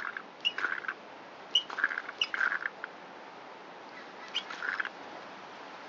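Primer bulb on an Echo SRM225 string trimmer's carburetor being squeezed repeatedly, giving short squeaky, squishy pumps a fraction of a second to a second apart as it draws fuel through the carburetor.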